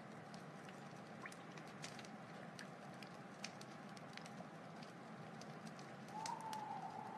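Wood fire crackling steadily with scattered sharp pops, and a thin whistling tone that swells for the last second or so.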